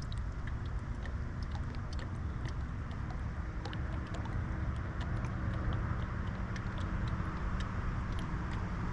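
Boat motor running steadily with a low rumble and a faint hum, with scattered light ticks over it.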